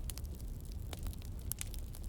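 Campfire crackling: scattered sharp pops and snaps, several in two seconds, over a steady low rumble.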